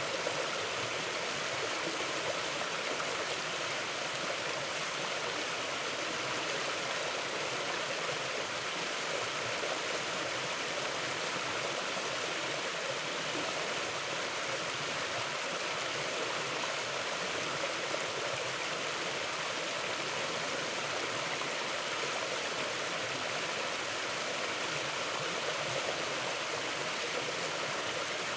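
Running water of a mountain stream flowing over rocks: a steady, even rush without change.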